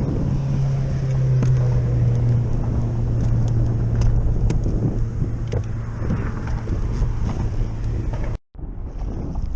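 Road traffic on the highway bridge overhead: a steady low drone of vehicles, with wind buffeting the microphone. The sound drops out abruptly for a moment near the end, then wind noise carries on.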